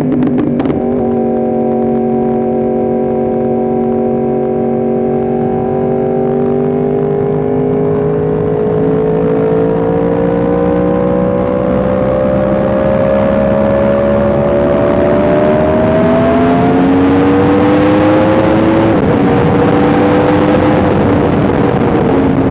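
Yamaha R1M's crossplane inline-four running under light throttle on the move, its note rising slowly as the bike gathers speed, then dropping back about nineteen seconds in as it shifts up. Wind noise grows with the speed.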